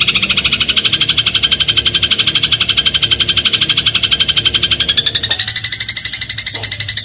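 Eurasian tree sparrow giving a rapid, unbroken rattling trill of about fifteen high notes a second, which steps slightly higher in pitch about five seconds in.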